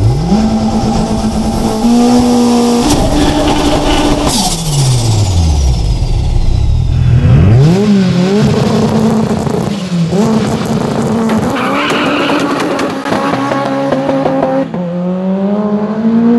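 Turbocharged 2.0-litre 16-valve four-cylinder engine of a 1056 hp VW Golf Mk1 drag car revving hard at the start line. The revs climb, are held high, drop away and waver up and down several times. Near the end they rise steadily as the car accelerates off the line.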